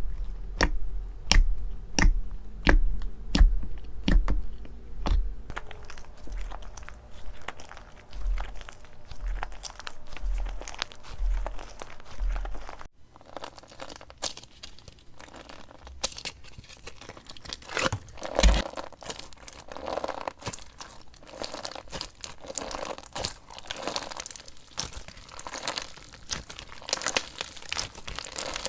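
Slime being pressed and squeezed by hand, giving sharp crunchy clicks and pops about twice a second. About halfway through, the sound changes to a denser run of crackling and crinkling.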